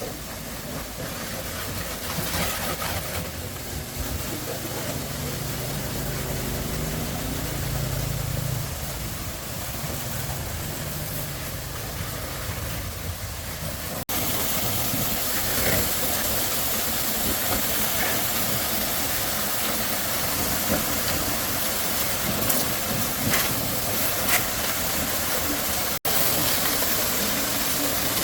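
An engine running with a low drone that rises slightly in pitch. After an abrupt cut it gives way to a steady hiss with scattered clicks and knocks.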